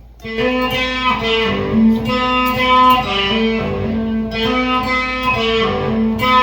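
Guitar playing a melodic instrumental introduction in the key of G, with plucked notes changing every fraction of a second; it comes in about a quarter second in.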